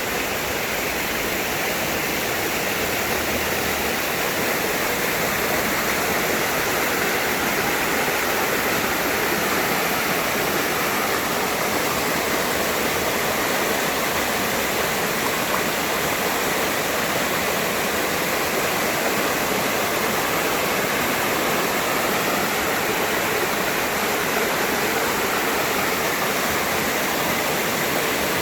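Mountain valley stream rushing with a steady, even flow of water.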